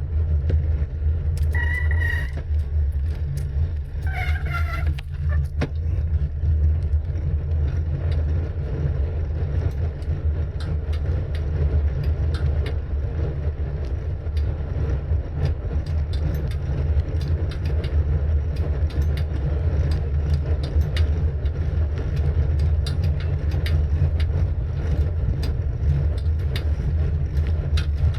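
Steady low rumble of wind buffeting the microphone on a moving bicycle, with light ticking and rattling throughout. Two short squeaky tones sound in the first five seconds.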